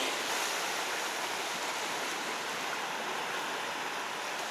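Sea surf washing steadily against a rocky shore, an even rushing wash with no distinct breaks.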